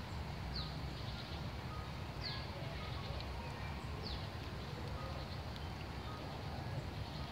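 Outdoor ambience with a steady low rumble, over which a bird gives short high notes sliding downward, three times about a second and a half apart in the first four seconds.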